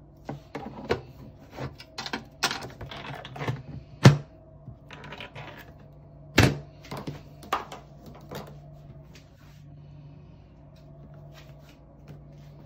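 Portable twin-tub washing machine's motor humming steadily, with a run of clicks and knocks over it, the loudest two about four and six and a half seconds in. The knocks thin out in the last few seconds, leaving the hum.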